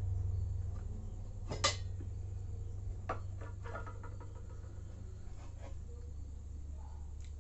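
A few light clicks and clinks of eating from a dish, the loudest about one and a half seconds in, over a steady low hum.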